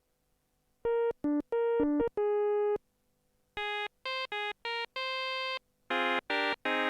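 Teensy 4.1-based TSynth polyphonic synthesizer playing short, dry staccato notes with no reverb tails, in three brief phrases with pauses between. The first phrase, about a second in, alternates two pitches. The second, a little higher, comes at the middle, and the third, near the end, is a fuller, lower note that is held.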